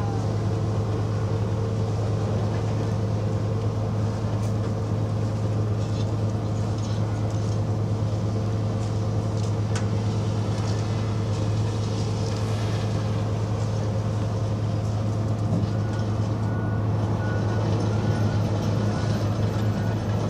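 Engine of a Type 94 amphibious water's-edge minelaying vehicle running steadily, a constant low drone that holds the same pitch throughout.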